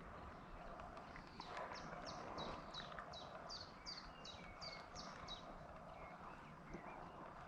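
A bird singing a run of about a dozen high, downward-slurred notes, evenly repeated about three a second, starting a little over a second in and stopping about halfway through, over faint outdoor background noise.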